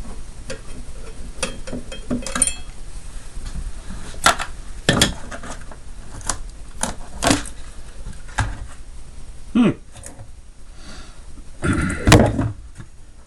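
Parts of a mini fridge being handled and taken apart: a series of irregular knocks and metallic clinks, with a short squeak a little before the end.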